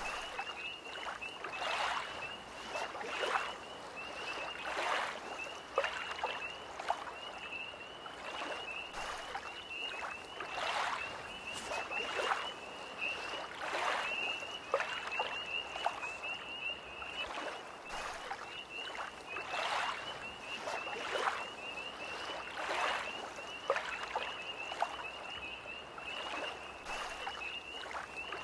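Small lake waves lapping in irregular splashes every second or so, over a steady, high-pitched, pulsing trill of tree frogs.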